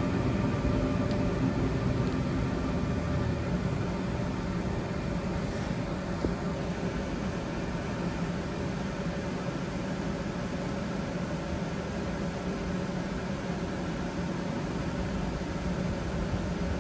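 A passenger train pulling away from the platform, its motor hum fading over the first few seconds, leaving a steady low rumble.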